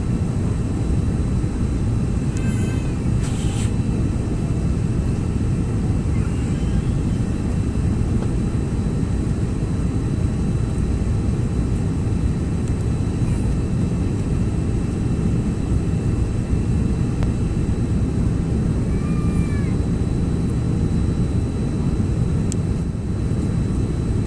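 Steady cabin roar of a Bombardier CRJ-900 regional jet in flight, heard from inside the cabin near the front. It is a deep, even rumble of its tail-mounted turbofans and airflow, with a faint steady high whine.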